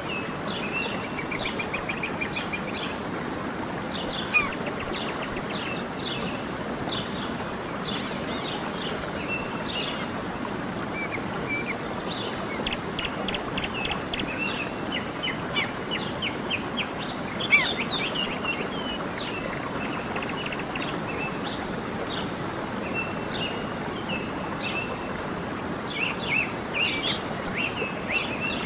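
A stream running with a steady rush, and many small birds chirping and twittering over it, thickest near the middle and the end.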